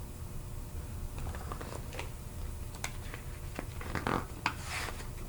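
Paper rustling and scattered light clicks as a picture book's page is handled and turned, over a low steady hum. The clicks and rustles start about a second in and are busiest near the end.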